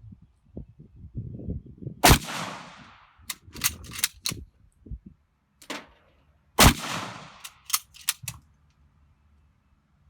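Two rifle shots about four and a half seconds apart, each with a trailing echo. After each shot comes a quick run of sharp metallic clicks as the bolt-action rifle's bolt is worked to chamber the next round.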